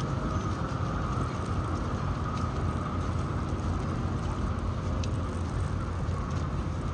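Blizzard wind buffeting the microphone as a steady low rumble, over continuous city street noise with a steady mid-pitched hum.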